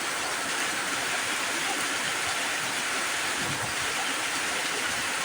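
Heavy rain falling, a steady hiss with no breaks.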